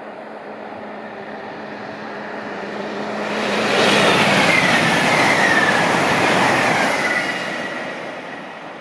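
Electric multiple-unit passenger train passing at speed: the rush of wheels on rail and air swells to a peak a little under four seconds in and fades away near the end. A high whistle drops in pitch as the train goes by.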